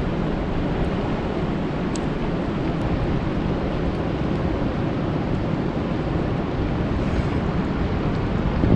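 Steady rain falling on a lake: a dense, even rush of noise, heaviest in the low end, with a few faint drop ticks about two seconds in.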